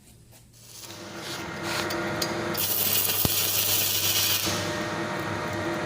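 Weldcraft 500-amp three-phase welding machine humming as it comes under power about a second in, then an electric welding arc sizzling and crackling for about two seconds in the middle while the machine is tested after servicing.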